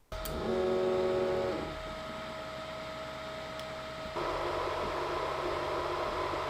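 A machine switches on suddenly and runs with a steady hum and hiss, its tone shifting twice and growing louder and noisier about four seconds in.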